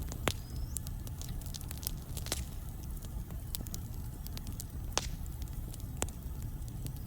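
Wood logs burning in a fireplace: a steady low rumble of the fire with irregular sharp crackles and pops, four of them louder than the rest. A brief high whistle sounds about half a second in.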